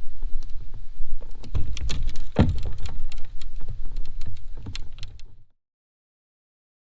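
Irregular clicks and knocks of gear and paddle against a fishing kayak, over a low wind rumble on the microphone. There is one loud thump about two and a half seconds in. The sound cuts out abruptly to silence about five and a half seconds in.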